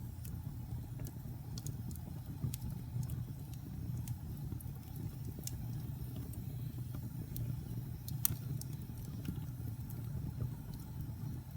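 Fire burning in a fireplace: a steady low rumble of flames with scattered sharp crackles and pops, the loudest about eight seconds in.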